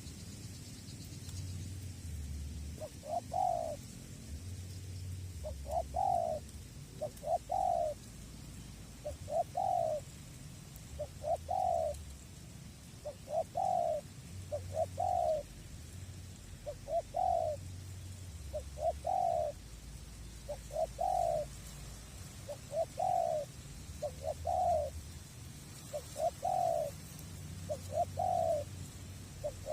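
Spotted dove cooing: a long series of short, hoarse coos, singly and in pairs every second or two, starting a few seconds in. A low wind rumble runs underneath.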